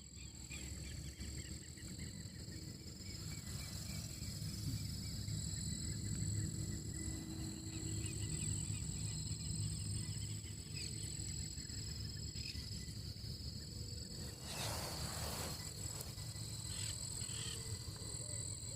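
Insects trilling steadily at two high pitches, over a low steady rumble, with a brief hiss or rustle about fifteen seconds in.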